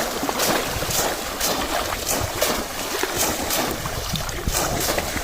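Irregular splashing in shallow water, about two splashes a second, over wind rumbling on the microphone.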